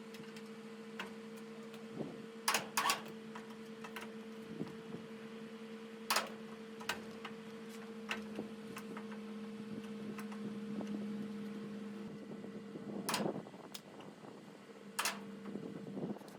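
A steady machine hum with sharp clicks and knocks now and then: a pair near the start, one in the middle and two near the end.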